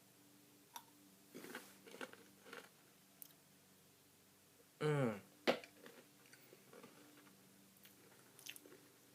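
Crunchy Pretz baked pretzel sticks bitten and chewed close to the microphone, a scatter of crisp crunches. About five seconds in a short vocal sound falls in pitch, followed by a sharp crunch.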